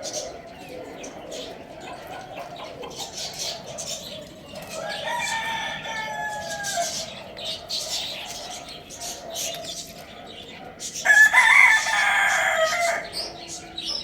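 Rooster crowing twice, a fainter crow about five seconds in and a much louder one near the end, over steady chirping of small birds.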